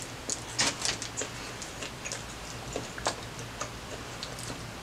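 Close-up chewing of a bite of a steak and cheese Subway sandwich, with irregular soft clicks and crunches from the mouth.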